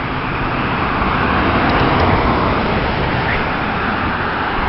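Road traffic noise: a steady rush of passing cars that swells slightly about two seconds in and then eases.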